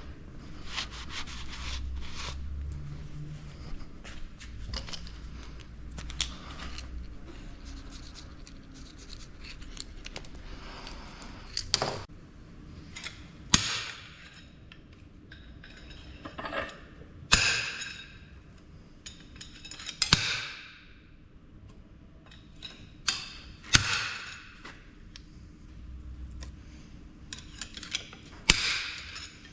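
Hand tools working metal on a hydraulic cylinder's gland as its Allen cap screws are loosened: steady scraping and rubbing, then about six sharp rasping bursts from about twelve seconds in.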